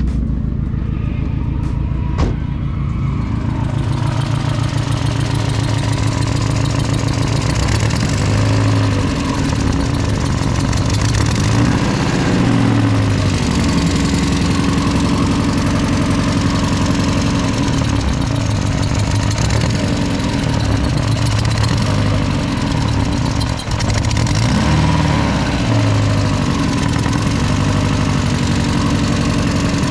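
Drift car's engine idling roughly with a misfire, the low engine note pulsing unevenly as if struggling. The owner fears a damaged valve, then suspects an exhaust leak at a cracked downpipe flange that makes the ECU read lean and pull the engine into limp mode.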